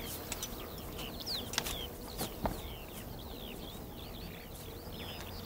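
Small birds chirping steadily: many short, quick falling chirps, with a few light clicks and one sharper click about two and a half seconds in.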